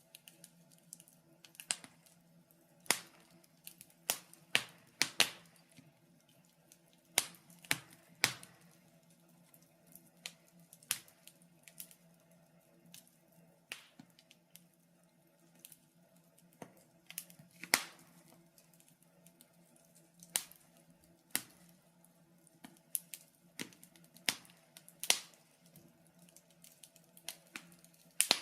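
Wood fire crackling in a fireplace: sharp, irregular pops and snaps, roughly one a second, some much louder than others.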